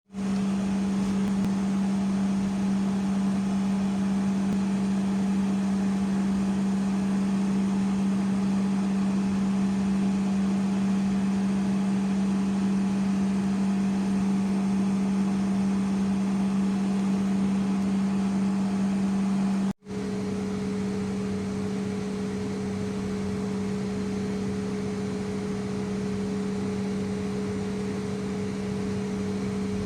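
A steady machine hum with one low, constant tone over a background hiss. It cuts out for an instant about two-thirds of the way in and then carries on.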